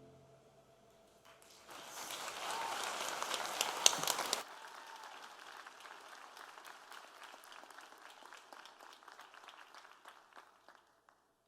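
Concert audience applauding as the band's final chord cuts off. The applause is loud for a few seconds, with a short whoop, then drops suddenly to lighter scattered clapping that thins out and stops near the end.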